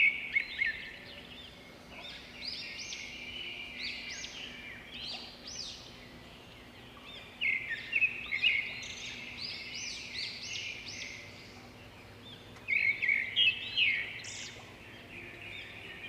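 Birds chirping in bursts of quick, high, repeated notes: three clusters, one at the start, one about halfway through and one near the end, over a faint steady low hum.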